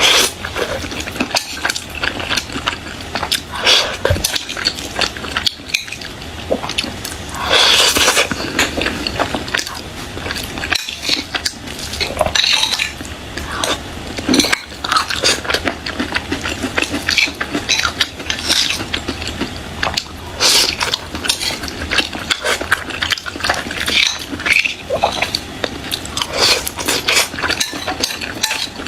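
Close-miked eating: chewing and mouth sounds mixed with a utensil clinking and scraping on a dish, in a dense run of small clicks with a few louder knocks.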